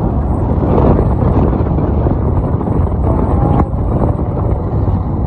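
Motorcycle riding noise: wind rushing over the microphone together with the engine and road rumble at speed. There is a single short click about three and a half seconds in.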